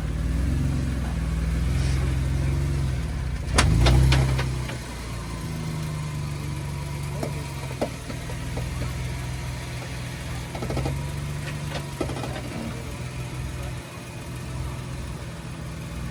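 Off-road Jeep engine running low and steady. A brief loud surge comes about three and a half seconds in, then the engine runs quieter, with a few scattered clicks.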